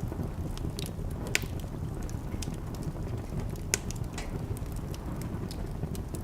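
Wood fire burning in a fireplace: a steady low rush of flames with scattered small crackles and two sharper pops, about one and a half seconds in and again near four seconds.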